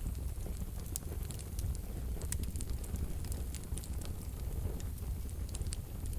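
Wood fire burning in a wood-burning stove: a steady low rumble of flames with frequent sharp, irregular crackles and pops from the burning logs.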